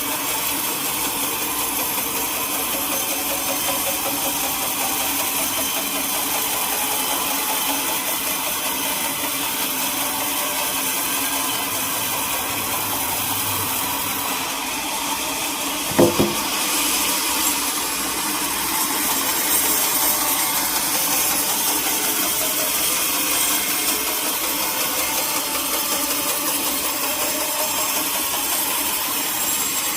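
Sawmill machinery running steadily, with one sharp knock about halfway through.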